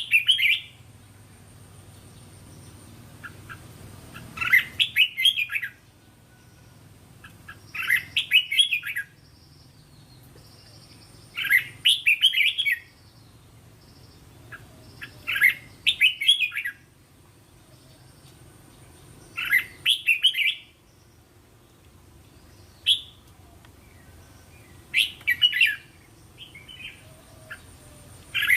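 Red-whiskered bulbul singing: short bright phrases of quick chirping notes, about one second long, repeated roughly every four seconds.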